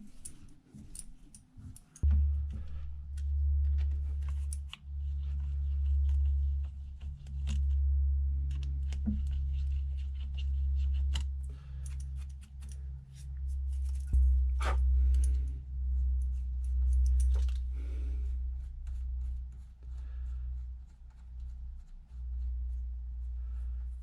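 Drilling machine's electric motor starting about two seconds in and running with a steady low hum while 6 mm holes are drilled, with many short clicks and scraping sounds from the work; the hum drops slightly in pitch about halfway through.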